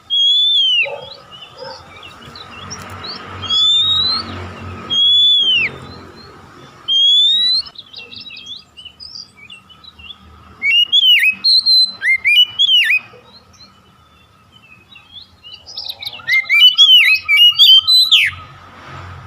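Oriental magpie-robin (kacer) singing: loud whistled notes that rise and then fall, given one by one about a second apart, then quicker jumbled phrases with short trills near the middle and again near the end. A faint steady high tone runs underneath.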